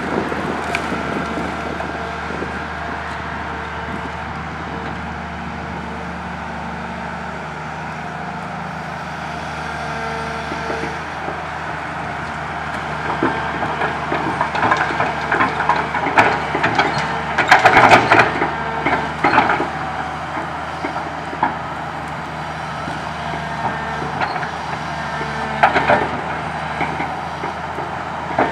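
Komatsu PC200 excavator's diesel engine running steadily, with crackling, snapping and knocking of tree branches being scooped and dropped into a dump truck bed. The cracks come in clusters through the middle, loudest about halfway, with another sharp knock near the end.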